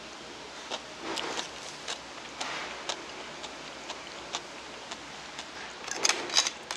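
Close-up chewing of a mouthful of boiled egg and radish kimchi, with scattered small wet clicks. About six seconds in, a quick run of sharp clicks as chopsticks pick through clam and scallop shells in a metal pot.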